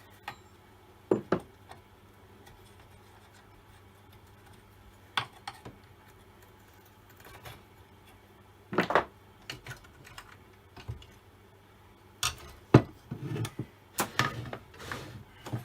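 Scattered clicks and knocks of tools and chainsaw parts being handled as the old Stihl 08S chainsaw's top case is unscrewed and lifted off, a few at first, then a close run of clatter near the end with the loudest knock about three-quarters of the way through.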